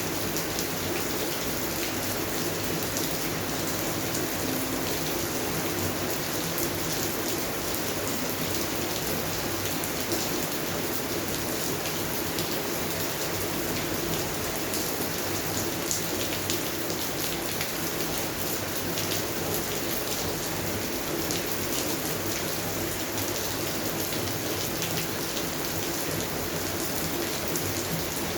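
Steady rain falling, an even hiss flecked with the ticks of single drops striking close by.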